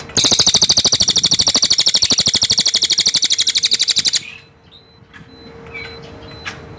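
A songbird kept under the local name cililin gives one loud, very fast, rattling trill lasting about four seconds that stops abruptly.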